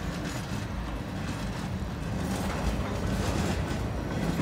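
Freight-train tank cars rolling past over a grade crossing: a steady rumble of steel wheels on the rails with creaks and clanks from the cars.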